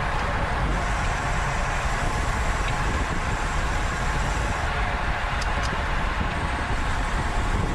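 Steady rush of wind over the microphone of a camera on a bicycle ridden at racing speed in a criterium, with two faint clicks a little past halfway.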